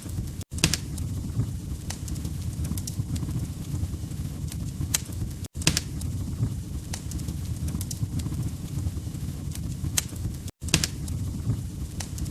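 Wood fire crackling: sharp irregular pops and snaps over a steady low rumble of flame. The sound cuts out completely for a split second three times, about five seconds apart.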